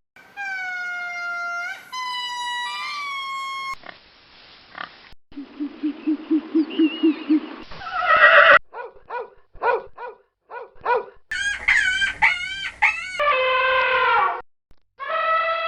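A run of different animal calls spliced together with abrupt cuts: drawn-out pitched cries, a low pulsing sound repeating about four times a second, then a quick series of short calls and more long wavering cries.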